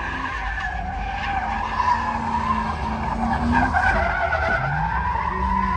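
Truck doing a burnout: tires spinning and screeching over an engine held at high revs, the engine note dipping about four seconds in and climbing again.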